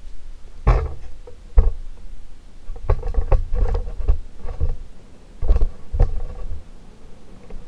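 Airflow from a large ceiling fan buffeting the microphone in irregular low rumbling gusts, with sharper knocks at intervals and a faint steady motor hum underneath.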